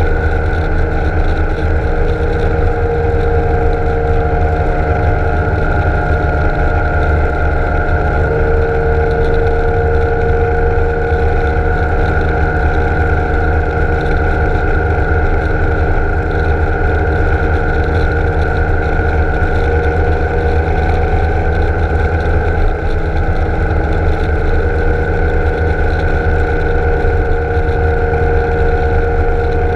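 BMW K1600 GTL's inline-six engine running at a steady cruise, its pitch drifting only slightly, over a heavy low wind rumble on the microphone.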